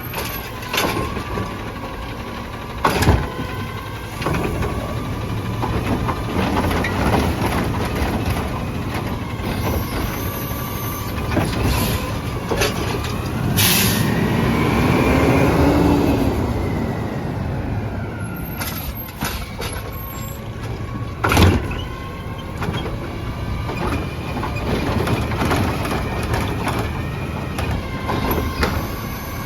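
Autocar ACX trash truck running, with a short air-brake hiss about 14 seconds in as the engine swells, and sharp metallic bangs near 3 seconds and near 21 seconds.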